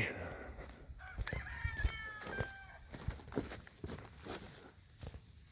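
A bird gives a quick series of short calls about a second in, lasting under two seconds, over a steady high-pitched insect drone, with a few light knocks and rustles.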